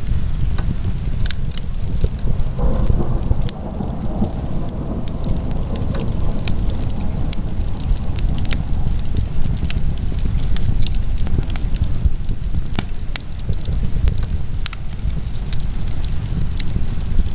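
Wood fire in a fireplace crackling, with many scattered sharp pops over a steady low rumble.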